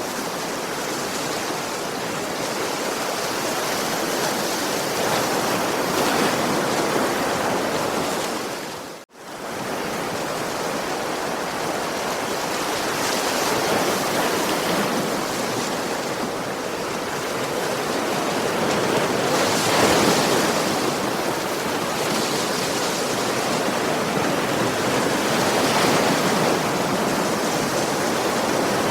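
Ocean surf: waves washing onto a beach in a continuous rush that swells every six or seven seconds. The sound cuts out for an instant about nine seconds in.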